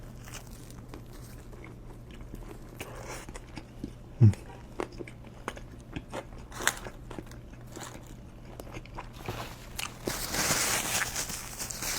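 Close-miked eating of a roast beef sandwich with hot peppers: chewing and biting with many small wet clicks. There is one loud low thump about four seconds in, and a louder crunchy, rustling stretch near the end.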